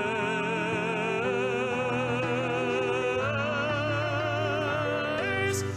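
A singer holds a long note with a wide vibrato over instrumental accompaniment, rising to a higher note near the end.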